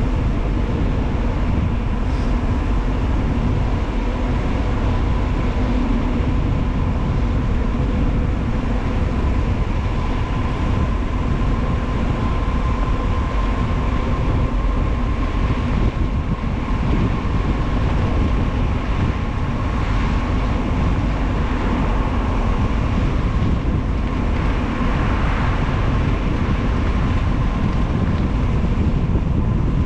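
Steady wind rush over the microphone and tyre rumble on pavement from a mountain bike coasting fast downhill, with a faint steady high whine running through it.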